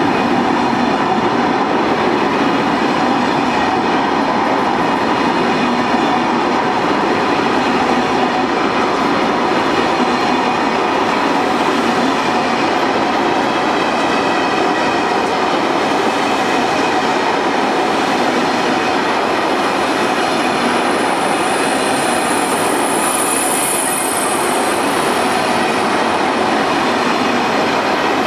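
Class 373 Eurostar train departing at low speed: the steady running noise of its wheels on the rails and its traction equipment as the carriages roll past. A faint high-pitched tone sounds for a few seconds about two-thirds of the way through.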